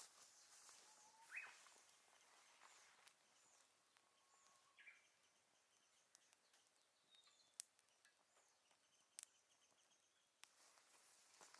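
Very quiet outdoor scene with faint bird calls: a couple of rising chirps and a short trill, plus a few sharp clicks about two-thirds of the way in.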